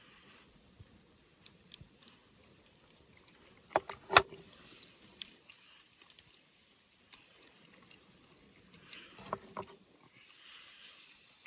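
A few scattered clicks and knocks over a quiet background. The loudest is a pair about four seconds in, one with a short ringing tone. A smaller cluster comes about nine seconds in.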